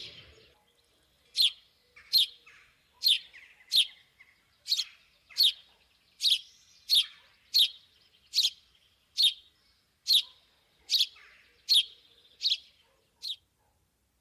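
A small bird calling over and over: a short, sharp, high chirp falling in pitch, repeated evenly about sixteen times, roughly once every three quarters of a second, then stopping near the end.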